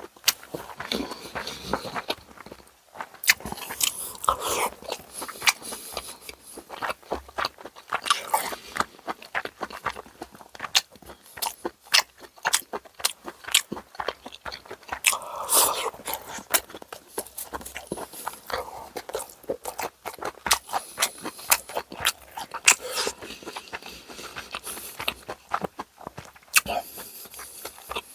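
Close-miked chewing and biting of boiled pork (bossam), a steady stream of wet mouth clicks and crunches with several louder bites.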